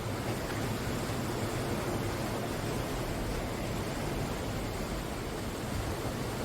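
Sea waves breaking on the shore: a steady wash of surf with no single wave standing out.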